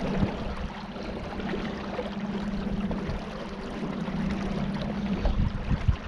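Small boat's motor running with a steady hum, over the wash of river water along the hull.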